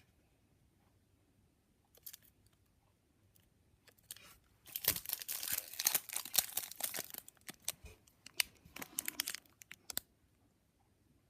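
A trading-card pack wrapper being torn open and crinkled by hand. A few small rustles come first, then a dense burst of tearing and crinkling about five seconds in, tailing off into scattered crackles.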